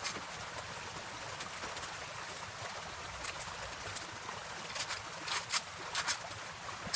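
Creek water running steadily, with a cluster of short, sharp noises about five to six seconds in.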